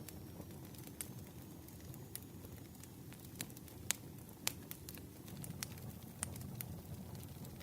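Campfire burning: wood crackling with irregular sharp pops over a low, steady rumble of flame, two pops louder than the rest near the middle.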